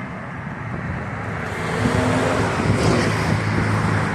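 Street traffic: a motor vehicle passing close by, its engine hum and tyre noise swelling about one and a half seconds in and staying loud.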